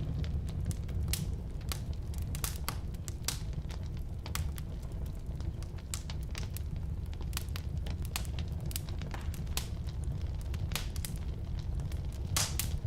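Firewood burning in a fireplace: many irregular sharp crackles and pops over a steady low rumble of the flames, with a loud cluster of pops near the end.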